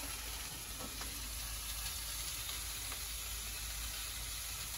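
Chopped carrots and potatoes sizzling steadily in a frying pan on a gas stove.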